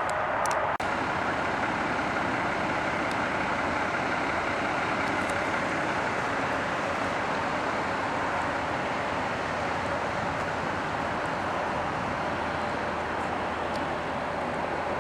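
Steady vehicle noise, an even continuous hiss and rumble with no clear engine note, dropping out briefly about a second in.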